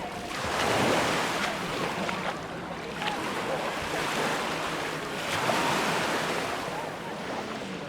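Sea waves breaking and washing up the beach, the surf swelling about a second in and again around five seconds in.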